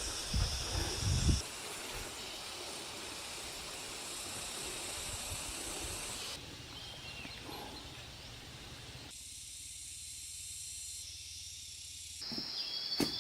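Steady high hiss of outdoor ambience, with a few low knocks in the first second or so. The sound changes abruptly several times.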